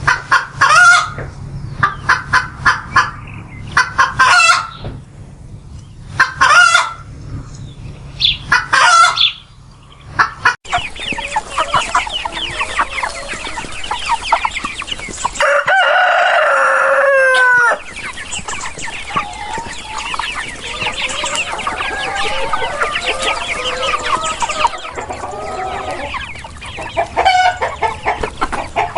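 Chickens calling: a run of separate loud calls for about ten seconds, then dense, continuous clucking from a flock. About halfway through, a rooster crows once, a drawn-out call of about two seconds that falls at the end.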